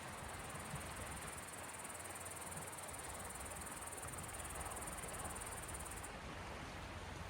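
A steady high, fast-pulsing cricket trill over a soft, even wash of sea waves and low rumble. The trill cuts off abruptly about six seconds in, while the waves go on.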